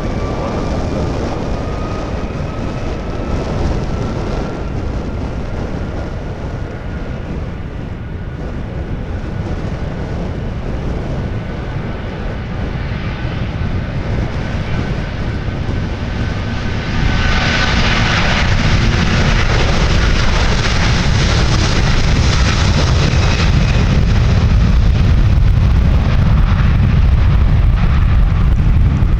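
Airliner jet engines running, with a whine in the first part; about 17 seconds in the sound jumps louder into a wide roar over a deep rumble.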